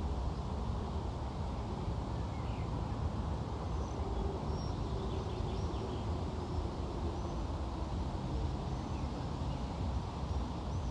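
Outdoor ambience: a steady low rumble with faint, scattered bird chirps and twitters.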